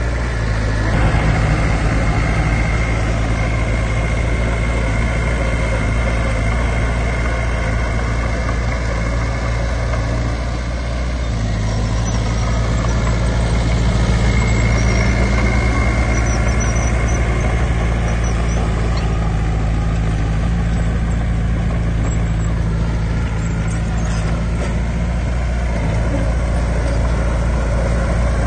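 Heavy diesel engine of earthmoving machinery running steadily, with a slight change in pitch and level about halfway through.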